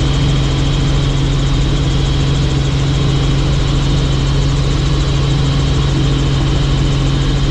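Helicopter running in flight: a loud, steady drone with a strong low hum and a thin high whine above it.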